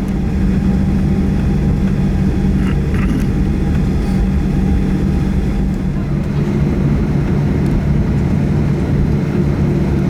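Boeing 737-800's CFM56-7B turbofan engines running steadily at low power before takeoff, a constant low hum heard inside the passenger cabin, with a few faint clicks about three seconds in.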